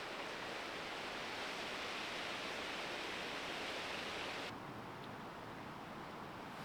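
Steady rushing hiss of wind through forest leaves. It drops away abruptly about four and a half seconds in, leaving a fainter hiss.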